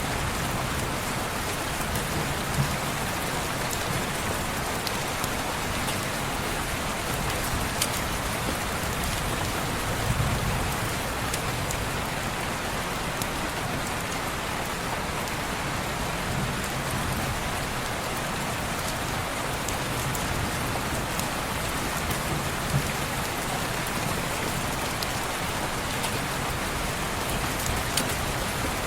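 Steady rain pattering on a window, with scattered small sharp ticks and a few soft low rumbles now and then.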